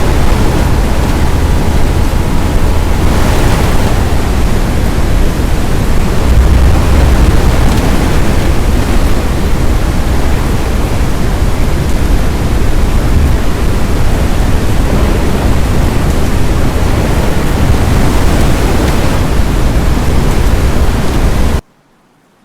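Loud, steady rushing noise of strong wind, heaviest in the low end, that cuts off suddenly about a second before the end.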